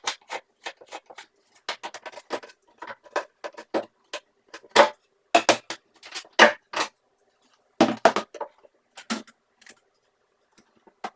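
Irregular sharp clicks and knocks of hard objects being handled, with a few louder clacks about five, six and a half and eight seconds in.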